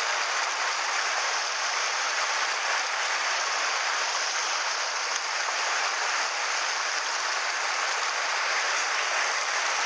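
Mountain stream water rushing, a steady, unbroken rush.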